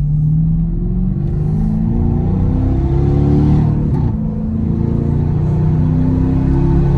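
Exhaust of a 2017 Dodge Durango R/T's 5.7 L Hemi V8, heard inside the cabin, running through an X-pipe with the rear mufflers deleted. The engine is accelerating: its pitch climbs, drops about four seconds in, and climbs again.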